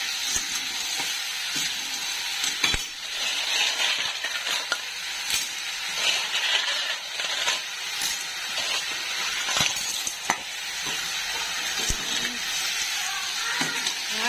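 Snails in their shells sizzling as they fry in a metal wok, stirred with a metal ladle, with sharp clinks of ladle and shells against the pan now and then.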